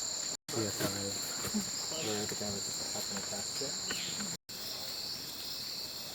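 A steady, high-pitched drone of rainforest insects in two unbroken tones, with faint voices beneath it. The sound drops out briefly about half a second in and again just after four seconds, and the drone shifts slightly in pitch after the second break.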